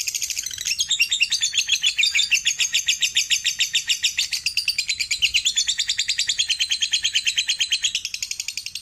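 Lovebird's long 'ngekek' trill: a rapid, unbroken chattering of high, evenly repeated notes, many to the second, sustained without a pause.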